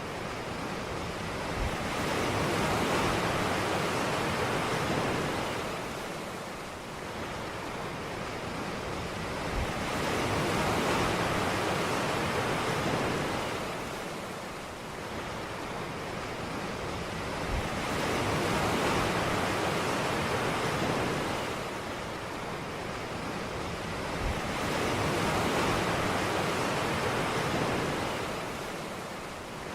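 Ocean surf: waves breaking and washing up a beach, each swell rising and fading about every seven or eight seconds.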